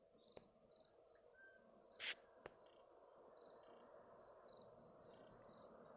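Faint outdoor nature ambience: short high chirps repeating at uneven intervals over a steady low hiss, with one sharp click about two seconds in.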